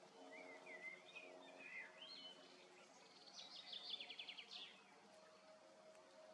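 Faint bird song: a run of short warbling phrases, then a quick trill of rapidly repeated notes about three and a half seconds in, over a faint steady low hum.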